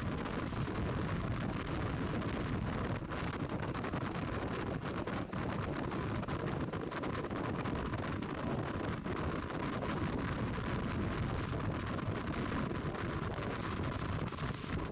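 BMW R1200 GS Adventure motorcycle under way: a steady rush of wind over the microphone, with engine and road noise running underneath.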